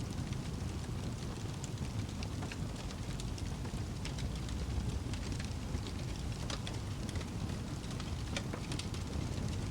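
Wood fire crackling in a fireplace: a steady low rumble with irregular sharp pops and crackles scattered throughout.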